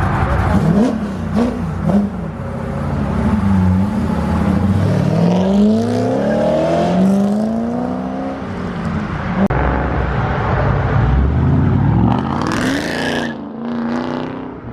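Car engines revving and accelerating hard, pitch climbing and dropping several times as the cars pull away.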